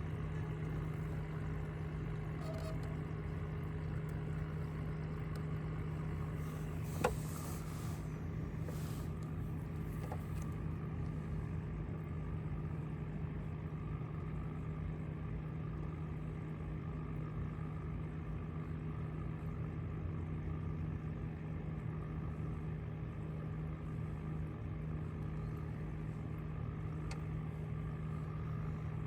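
A motor running at a steady, unchanging speed, with a constant low hum. A single sharp click about seven seconds in.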